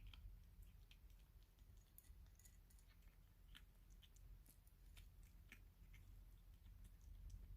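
Kittens eating: faint, irregular clicks of chewing over a low steady hum.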